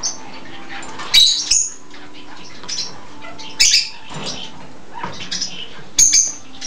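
Pet budgerigars chirping and squawking, with three louder sharp calls spread through and softer chattering chirps between.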